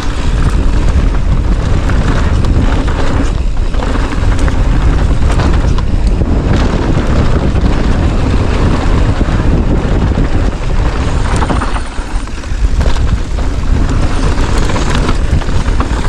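Wind buffeting a GoPro's microphone at speed: a loud, steady rumble, with a brief drop about twelve seconds in.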